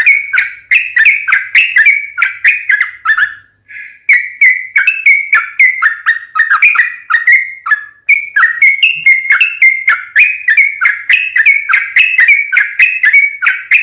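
Yellow-vented bulbul singing a long, rapid chattering song of short notes, about three a second, with a brief pause a few seconds in.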